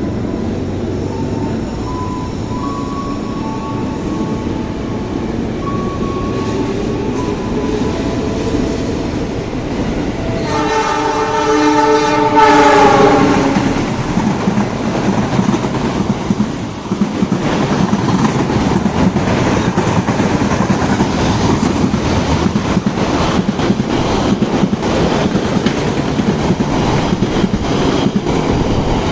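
A passenger train hauled by a CC206 diesel-electric locomotive passing close by. A rumble builds, then the horn sounds for about three seconds near the middle, its pitch dropping as the locomotive goes past. Then the carriages' wheels clatter steadily over the rail joints.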